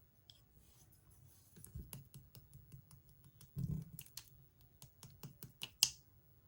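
Translucent slime being pressed and worked by hand, giving a run of irregular crisp clicks and small pops, with a duller squish about halfway through and the loudest pop near the end.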